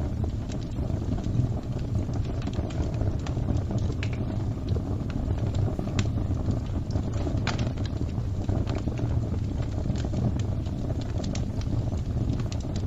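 Fire crackling: a steady low rumble of burning, broken by sharp, irregular pops, two of them louder about six and seven and a half seconds in.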